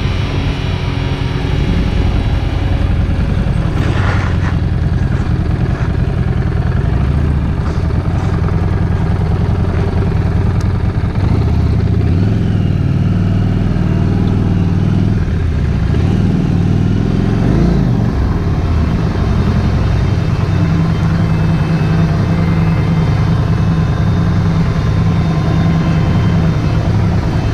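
Harley-Davidson Street 750's V-twin engine running steadily while under way. Partway through, its pitch rises and falls a few times as the revs change.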